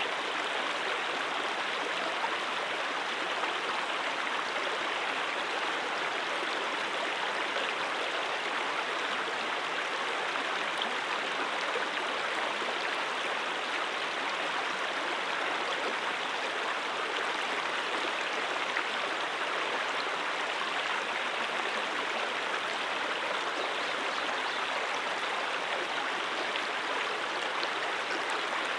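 Brook water flowing in a steady, unbroken rush.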